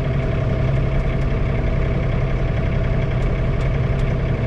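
John Deere 3046R tractor's three-cylinder diesel engine running steadily, heard from inside the closed cab.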